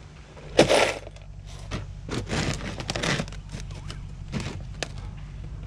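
Objects being handled on a work surface: irregular knocks, clatter and scraping, the loudest knock a little over half a second in, over a steady low hum that starts about half a second in.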